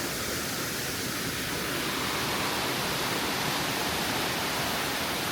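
Steady rushing of water from a jungle river or waterfall: an even, unbroken hiss.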